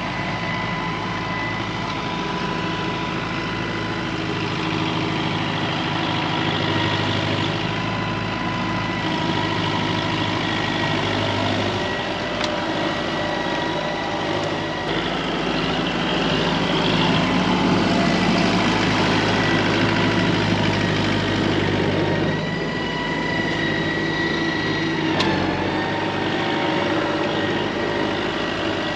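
A vehicle engine running steadily, with a thin steady whine above it; its note changes about 12 and 22 seconds in.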